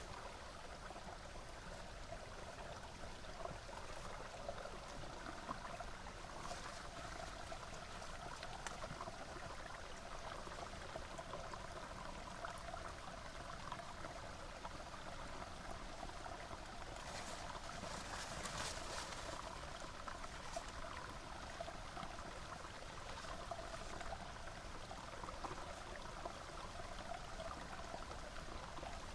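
Small river flowing steadily, an even trickling rush of water, with a few brief sharper sounds a little past the middle.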